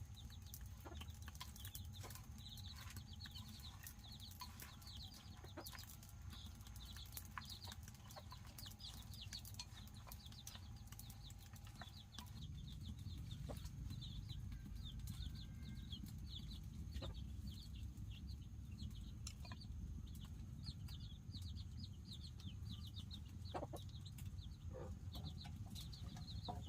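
Chickens calling, with quick runs of short, high peeping chirps repeating over a low steady rumble, and scattered light clicks.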